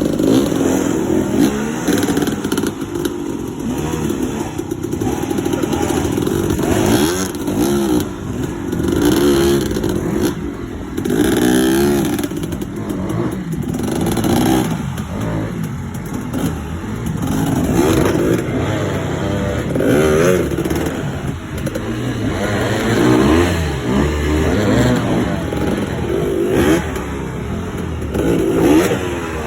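Dirt bike engine being ridden, its revs rising and falling again and again as the throttle is opened and closed.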